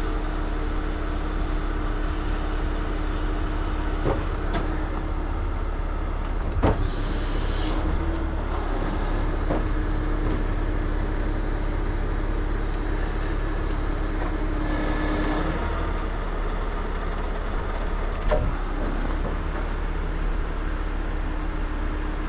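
Heavy truck's diesel engine running steadily at idle, with a few short sharp metallic knocks from rigging gear.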